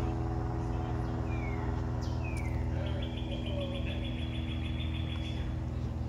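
Small birds calling over a steady low machine hum: two short falling chirps, then a rapid high trill lasting about two seconds.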